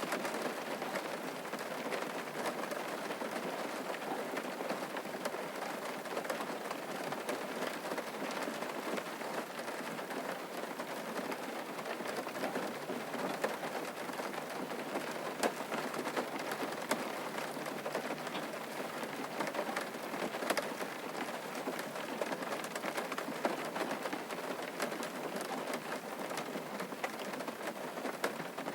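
Steady rain falling on a surface, an even hiss with many fine drop ticks through it.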